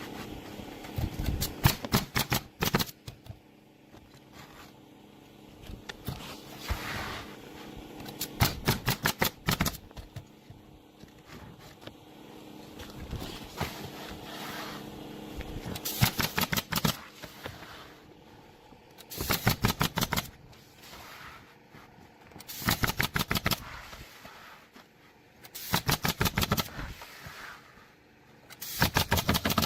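Pneumatic roofing nailer being bump-fired in quick bursts of about half a dozen to ten shots, roughly seven a second, with a pause of a few seconds between bursts.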